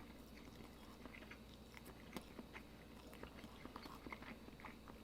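Faint, close-up chewing of a mouthful of sausage pizza: soft wet mouth clicks and smacks scattered irregularly.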